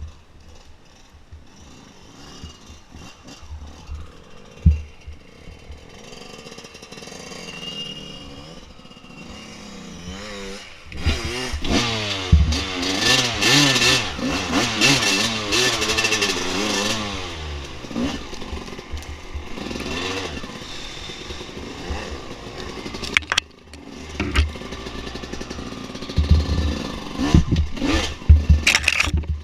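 Dirt bike engine running, louder from about eleven seconds in, its pitch rising and falling with the throttle for several seconds. It then settles to a steadier run, with knocks and clatter over rough ground near the end.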